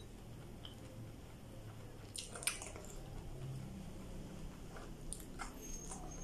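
A person chewing okra with soft, wet mouth sounds and a few short smacks or clicks, the sharpest about two and a half seconds in.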